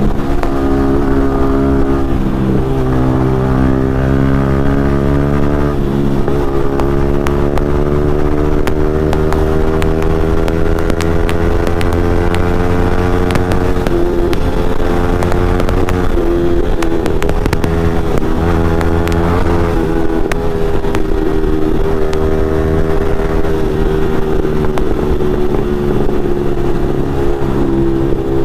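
Yamaha 155 cc single-cylinder motorcycle engine under way at speed, its revs climbing and falling with gear changes about 6, 14 and 20 seconds in.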